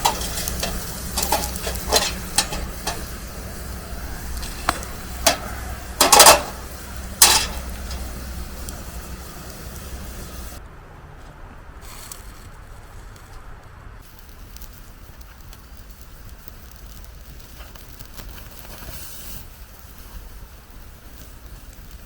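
Cooking over a wood campfire: sharp crackles and pops over a sizzling hiss, the loudest pops about six and seven seconds in. After about ten seconds it gives way abruptly to a softer steady hiss.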